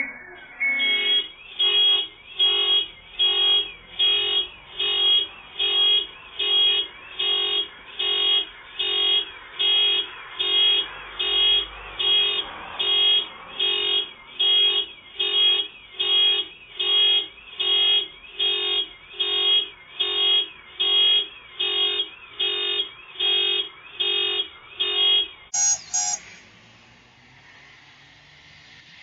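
Car alarm blaring the horn in an even rhythm, about one and a half blasts a second. It stops abruptly near the end, followed by one short higher beep.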